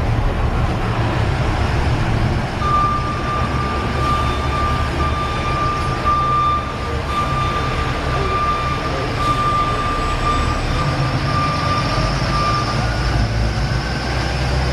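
Motor vehicle running with a steady low rumble. About three seconds in, a steady high electronic tone starts and holds for about ten seconds, with a faint repeating beep on top, then stops.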